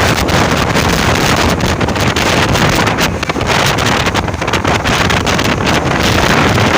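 Loud wind buffeting the microphone over the steady rumble of a moving passenger train.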